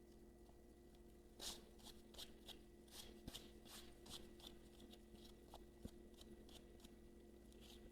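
Faint scratchy rubbing and scraping strokes as leftover OCA glue is worked off an iPhone 12 screen, about a dozen short strokes starting about a second and a half in, over a faint steady hum.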